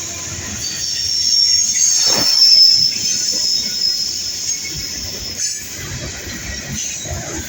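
Freight train rolling past, its wheels squealing in high steady tones over the rumble of the cars, with a single knock about two seconds in.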